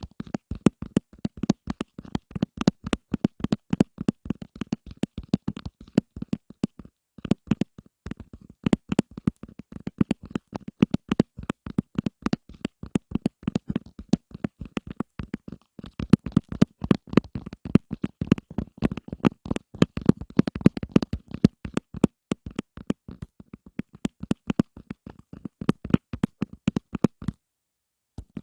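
Hands tapping quickly and unevenly for ASMR, many dull taps a second, with a brief pause near the end.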